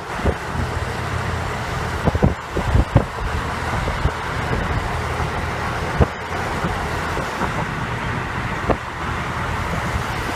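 Motor-vehicle road noise: a steady low engine and tyre rumble with a few short knocks, near the start and twice later on.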